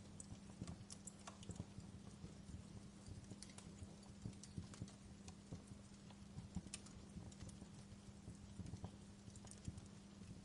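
Wood fire crackling in a fireplace: faint, irregular snaps and pops over a low steady hum.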